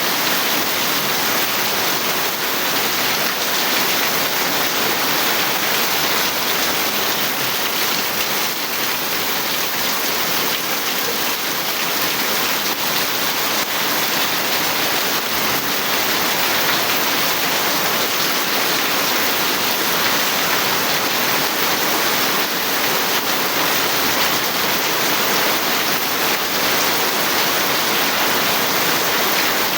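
Steady heavy rain falling, an even, dense hiss of drops on surfaces.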